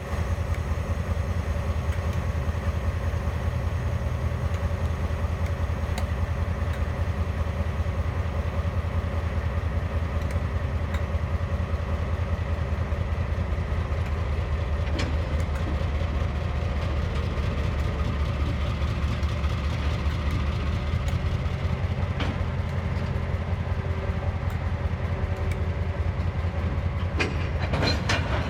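TasRail DQ class diesel locomotives idling with a steady low rumble. A few metallic knocks come through, clustered near the end.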